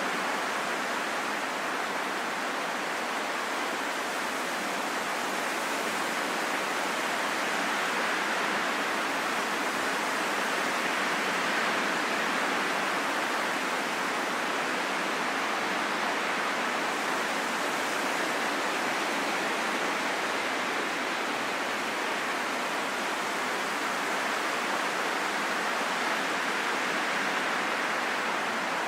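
Steady rushing wind noise, swelling and easing slightly and slowly, with no gusts or breaks.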